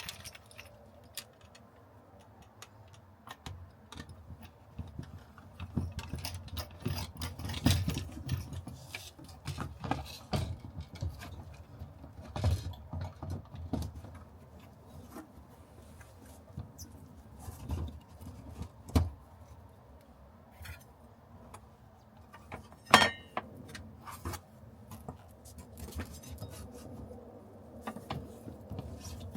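Hand-work on car parts: irregular clicks, knocks, rattles and scraping as tools and components are handled, with one sharper knock near the end.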